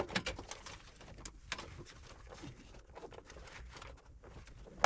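Scattered light clicks and taps of hands working at a furnace's clogged condensate drain line and its fittings, over a faint low hum.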